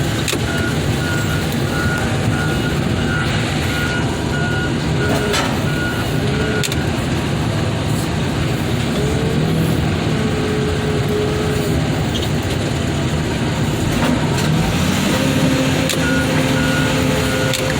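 Heavy machine's engine running steadily while its reversing alarm beeps in a fast even series, stopping partway through and starting again near the end. The engine revs up a few seconds before the end.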